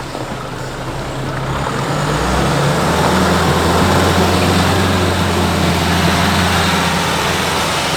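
Nissan Navara NP300 4x4 engine running under load, its steady low note picking up and growing louder about two seconds in, then holding, over a haze of tyre and road noise.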